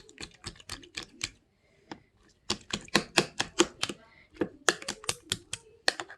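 A rapid run of sharp clicks or taps, about four to five a second, in bursts with a short pause about a second and a half in.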